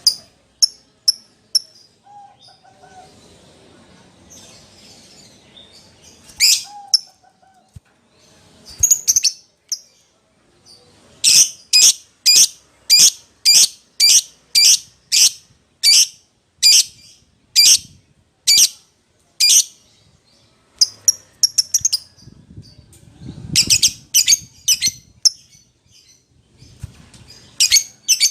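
Lovebird giving shrill, sharp chirping calls. After a few scattered chirps comes a run of about fourteen calls, at first about two a second and then slowing, followed later by quick clusters of chirps. These are contact calls to a mate or rival, used as a lure to set another lovebird calling.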